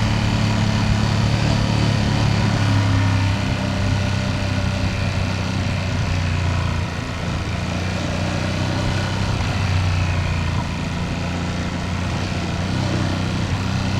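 Ducati Panigale V2S V-twin engine running at a steady cruise, its pitch holding nearly even with slight easings about halfway through and again near the two-thirds mark.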